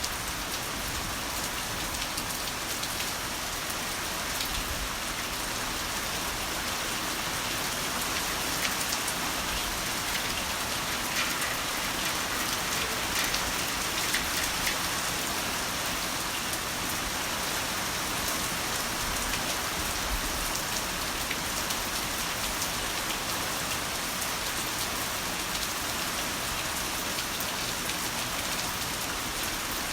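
Heavy rain falling steadily, a continuous hiss flecked with the sharp ticks of individual drops striking a surface.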